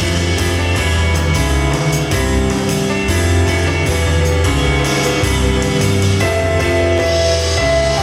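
Live band playing an instrumental break with no singing, low notes moving under guitar and light drums.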